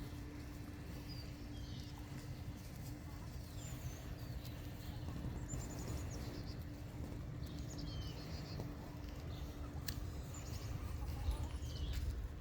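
Birds chirping in short, high calls, scattered through, over a steady low rumble and a faint constant hum.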